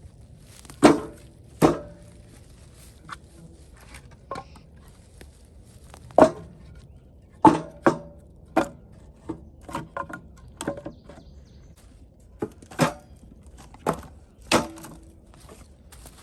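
Pieces of split firewood set down one after another onto a stack, a dozen or so sharp wooden clunks at irregular intervals.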